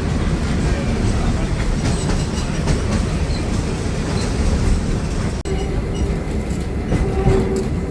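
Mary Valley Rattler steam train running along the line, a steady rumbling clatter of carriage wheels over the rails. A faint steady tone comes in near the end.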